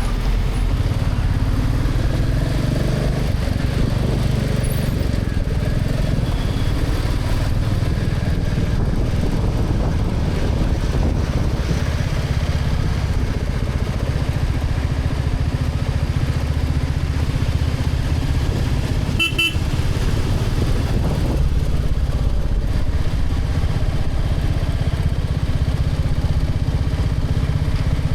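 Motorcycle running steadily at highway speed, with heavy low rumble on a helmet-mounted camera's microphone. A vehicle horn gives one short toot about two-thirds of the way through.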